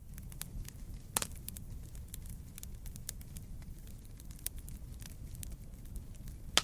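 Wood fire burning, with frequent small crackles and pops over a low steady rumble; a sharper pop comes about a second in and another at the very end.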